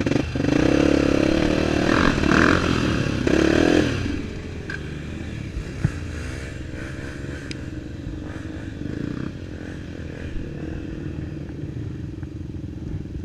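Single-cylinder four-stroke trail motorcycle engine revved loudly for about four seconds, then dropping to a lower, wavering idle: the bike keeps dying on the rider.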